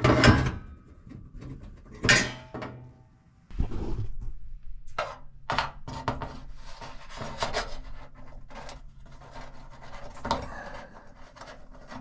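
Metal anti-theft shield parts and hardware being handled and fitted under a car: irregular clinks, knocks and scrapes. There are sharp hits at the start and about two seconds in, and a low steady hum comes in a few seconds later.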